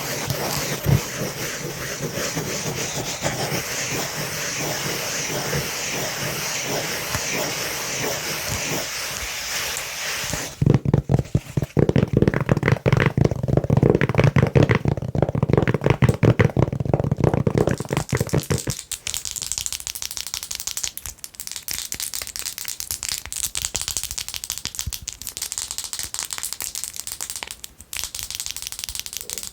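Long fingernails scratching rapidly on a soft velvet-covered lid, giving a dense scratchy hiss, then tapping on it fast and hard. About two-thirds of the way through, the sound switches to quick, sharp nail taps and clicks on a gel polish bottle.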